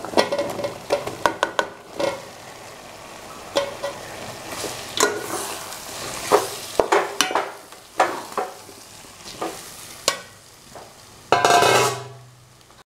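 Boiled Indian gooseberries sizzling as they go into hot sesame oil and ginger-garlic paste in an aluminium pot. A metal spoon and ladle clink and scrape against the pot as they are stirred, and there is a louder rush of noise near the end.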